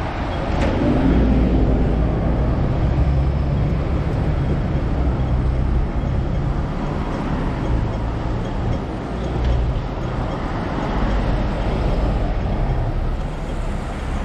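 Hong Kong double-decker electric tram running along its track: a steady low rumble of wheels on rails with a low motor hum.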